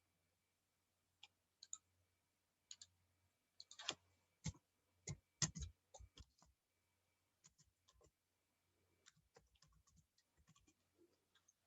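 Faint, irregular clicks of a computer mouse, with a cluster of louder ones around the middle.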